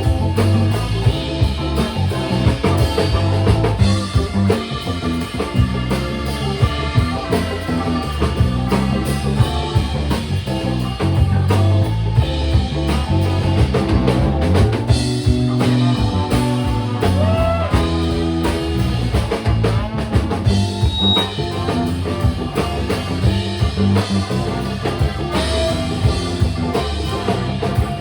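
Live funk-rock band playing an instrumental passage, with drum kit, bass and electric guitar.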